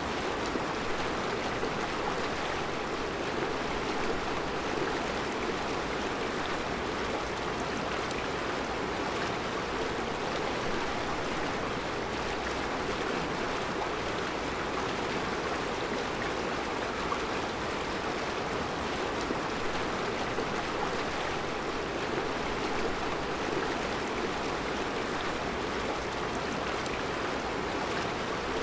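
Mountain river flowing steadily over round rocks in a rocky bed, an even, unbroken rush of water.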